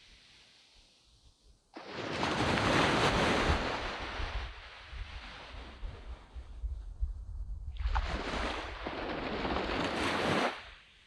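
Sea waves breaking and washing up a sand beach, two surges of surf, the first about two seconds in and the second near the end, with wind rumbling on the microphone.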